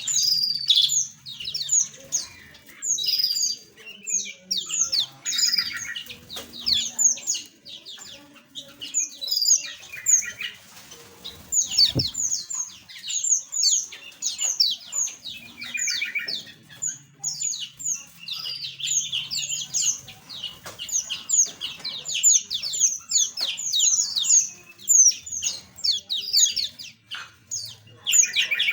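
A flock of small aviary birds chirping and twittering, many rapid overlapping short chirps with no pause.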